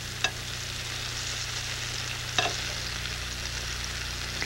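Mango and pineapple slices sizzling gently as they brown in a skillet, with a spatula clicking against the pan twice, over a steady low hum.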